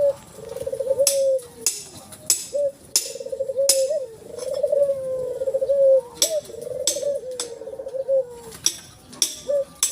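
Ivory-white collared dove (Barbary dove) cooing over and over, a run of rolling coos, each under a second long. Several sharp clicks fall among the coos.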